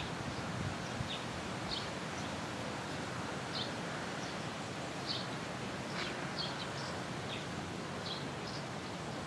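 Small birds chirping now and then, short high chirps about once a second, over steady outdoor background noise.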